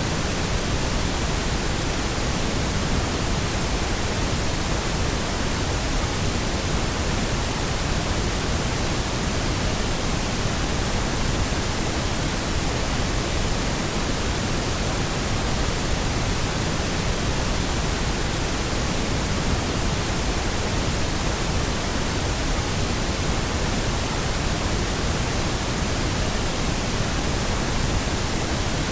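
Steady pink noise: an even, unbroken hiss with more weight in the low end.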